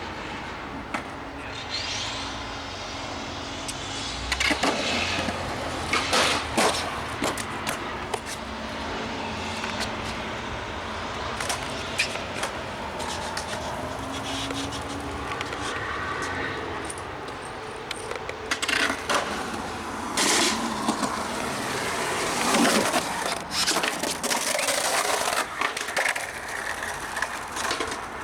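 Skateboard wheels rolling on concrete, with repeated sharp clacks and knocks of the board landing and hitting the ground, several of them in quick pairs.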